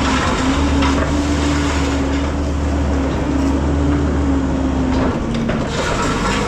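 Diesel engine of a piece of earthmoving equipment running steadily under load, its pitch dipping slightly about five seconds in, with scattered knocks and scraping as dirt is dug.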